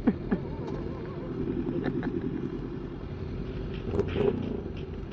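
Motorcycle engine running steadily while riding, with wind noise on the microphone and a couple of brief clicks about four seconds in.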